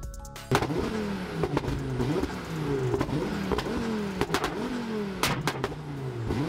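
Ford Focus RS engine revved on a dyno in quick repeated bursts, starting about half a second in; the pitch falls away after each burst, with sharp cracks between them.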